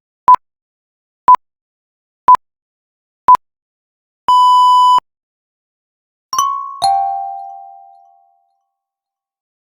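Electronic countdown beeps: four short beeps a second apart, then one longer beep at the same pitch. About two seconds later comes a two-note descending 'ding-dong' chime that rings out.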